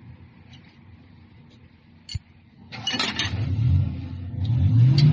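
Diesel engine fed by a Stanadyne injection pump: a sharp click, then about three seconds in the engine starts up and runs with its speed rising and falling, getting louder near the end.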